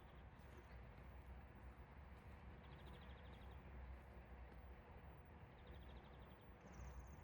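Quiet early-morning outdoor ambience: a faint low rumble with a small bird repeating a short, rapid high trill three times, about every three seconds, and a higher trill near the end.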